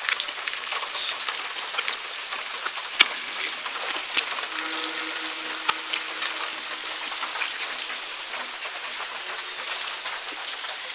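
Steady rain falling on the yard and porch, an even hiss with many scattered sharp drip ticks. A faint steady tone sounds through the middle of it.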